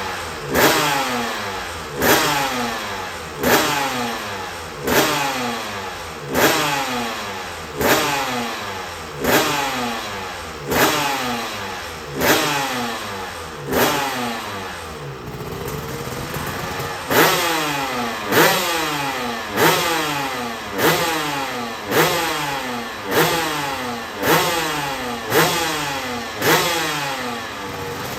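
1993 Honda NSR250 racing motorcycle's two-stroke V-twin engine being blipped over and over, a sharp rev about every second and a half, each one falling straight back down. About halfway through the blips stop and it runs steadily for a couple of seconds before the blipping resumes.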